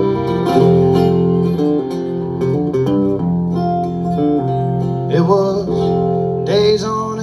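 Live country-folk band playing an instrumental intro led by acoustic guitar, with steady held bass notes. A wavering higher melody line comes in about five seconds in and again near the end.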